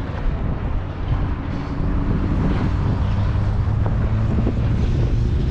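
Steady low engine drone, like a vehicle or machine running nearby, with wind noise on the microphone.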